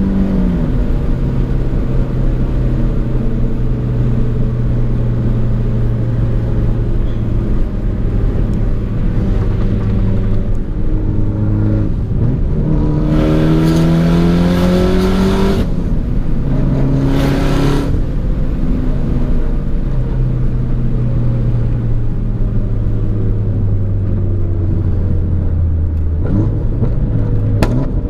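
Car engine and exhaust while driving, holding a steady cruising note. Near the middle the engine accelerates hard, its revs climbing, breaking at a gear change and climbing again, before settling back to a steady cruise.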